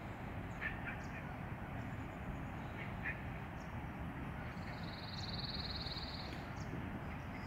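Steady outdoor background noise with short bird calls about a second in and again about three seconds in, and a fast, buzzy bird trill lasting about a second and a half, about five seconds in.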